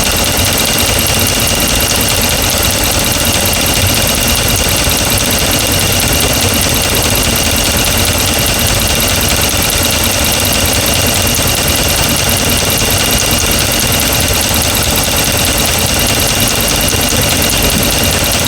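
2009 Dodge Ram 1500's 5.7 Hemi V8 idling steadily with the valve cover off, a rapid tick coming from the valvetrain. The mechanic traces the tick to the number one intake lifter, which he thinks is faulty.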